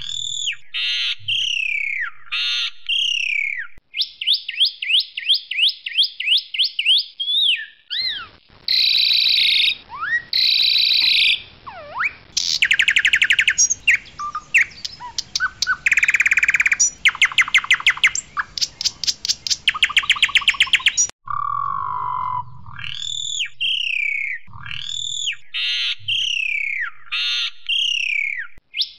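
Pied myna (jalak suren) singing loudly, a varied song of repeated falling whistled notes and buzzing rattles, with a long run of fast, harsh chattering notes in the middle before the falling whistles return near the end.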